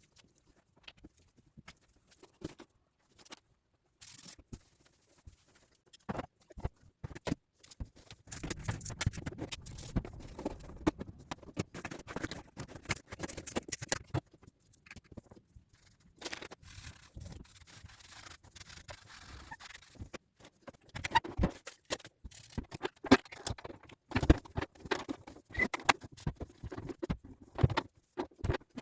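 Loose craft beads clicking, pattering and scraping as they are handled and sorted on a tabletop, in dense stretches with quieter gaps between.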